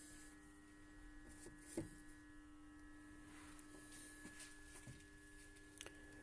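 Near silence: a faint steady hum, with a soft click about two seconds in.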